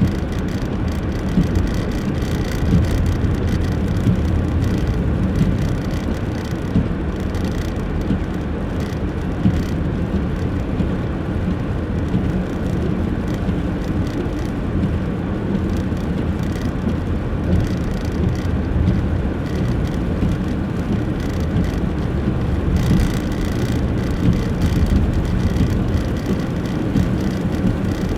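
A car driving on snowy roads, heard from inside the cabin: a steady low rumble of engine and tyre noise, with small irregular knocks.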